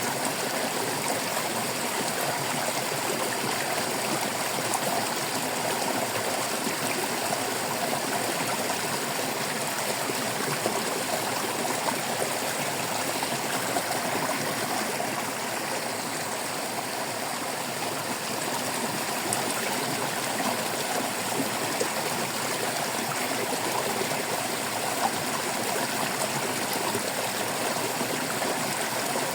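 Shallow stream of running water babbling and trickling steadily, an even rushing with small splashes and no breaks.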